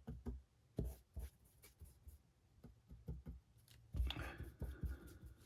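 A paintbrush being cleaned: a few scattered light taps, then a short scratchy rubbing of the brush about four seconds in.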